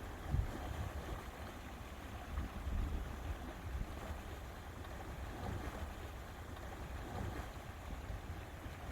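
Lake water lapping at the shore, with an uneven, gusty low rumble of wind on the microphone.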